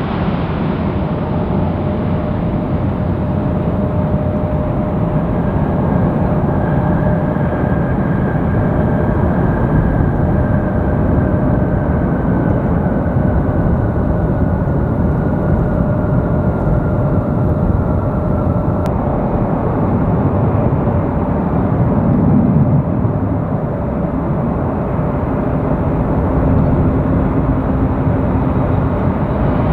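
Jet airliner on approach, a steady engine rumble with a faint whine that slowly falls in pitch.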